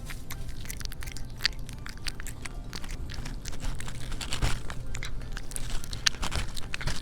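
Cats eating wet canned cat food in gravy: close, irregular chewing and lapping, a quick run of small wet clicks and smacks.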